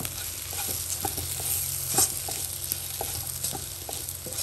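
Sliced onions, shallots and spice powders frying in oil in a nonstick kadai, stirred with a plastic spatula: a soft sizzle with frequent scraping strokes against the pan, one louder stroke about two seconds in. The spice powders are being sautéed until their raw smell cooks off.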